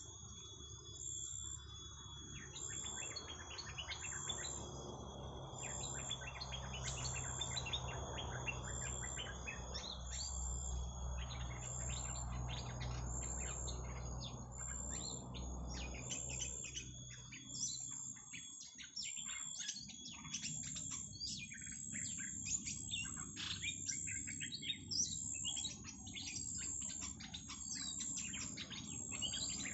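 Small birds chirping rapidly and continuously, petpet birds being lured with calls. The chirps grow denser about two-thirds of the way through, over a steady high insect-like whine, and a low rumble under the first half stops partway through.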